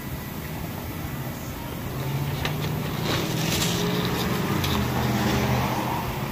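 Low hum of a motor vehicle's engine, growing louder from about two seconds in and easing off near the end, with a few light clicks.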